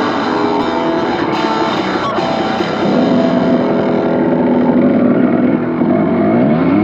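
Rock guitar music over a running dirt bike engine. The engine grows louder about three seconds in, and its pitch starts to rise and fall near the end as it revs.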